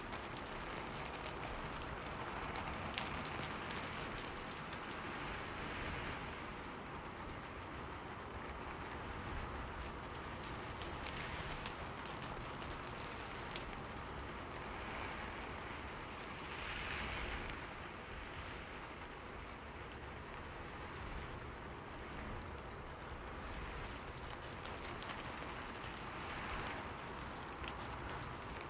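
Steady rain falling on forest leaves, with many individual drops ticking through an even hiss. The rain swells briefly a little past halfway.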